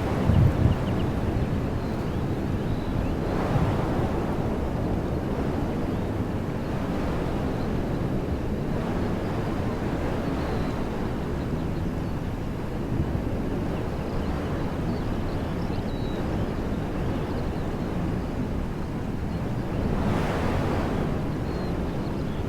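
Wind blowing through woodland trees: a steady rush with a low rumble of wind buffeting the microphone, swelling in a gust about three seconds in and again near the end.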